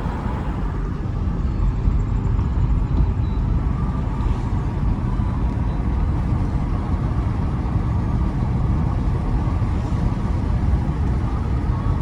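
Steady low rumble of a car driving: road and engine noise heard from inside the cabin.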